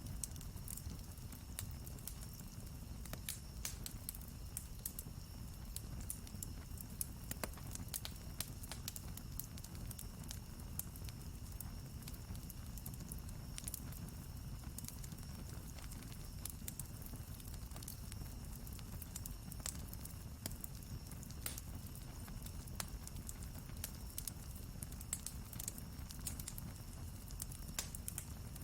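Wood campfire crackling, with many scattered sharp snaps and pops from the burning wood over a steady low rumble.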